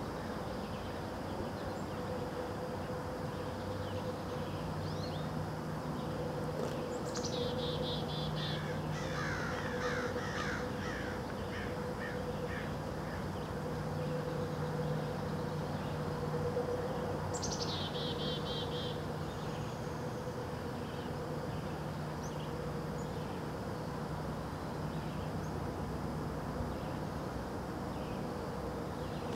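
Birds calling outdoors: twice a high trill slides quickly downward, about seven seconds in and again ten seconds later, with a run of shorter calls between them. A steady low hum lies underneath throughout.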